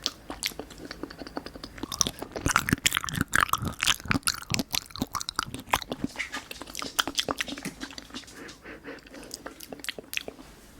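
Close-miked mouth sounds of eating soft pudding: wet chewing and smacking with many quick clicks, dense at first and thinning out over the last few seconds.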